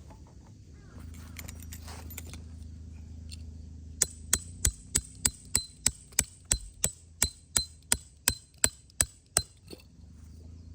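A hammer drives a metal tent stake into the ground with a quick run of about seventeen ringing metallic blows, about three a second, starting a few seconds in.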